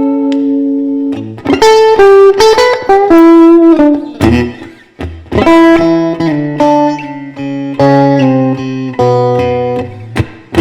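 Electric guitar playing a blues instrumental break: single sustained notes and short melodic runs, with a few struck chords.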